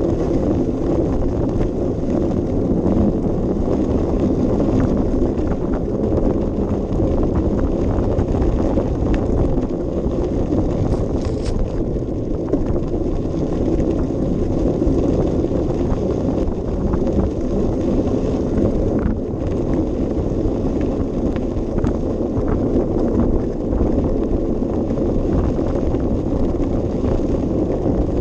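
Steady wind noise buffeting a bicycle-mounted action camera's microphone while riding, mixed with tyre and path rumble, with a few faint clicks and rattles.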